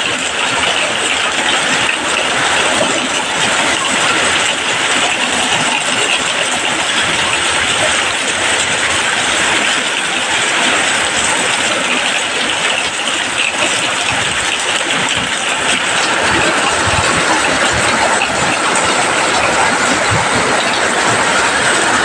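Steady, loud rushing hiss that holds evenly throughout, with no clear tone or rhythm.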